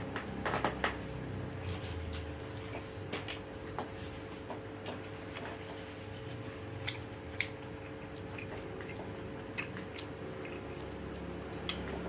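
A person chewing a mouthful of rice and shrimp eaten by hand: wet mouth sounds and scattered small clicks, the loudest cluster of clicks about half a second in, over a steady background hum.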